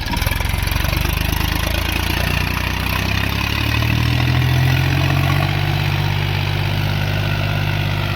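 Mahindra Yuvo 415 DI Tech+ tractor's four-cylinder diesel engine running steadily, its revs rising a little about three seconds in and then holding.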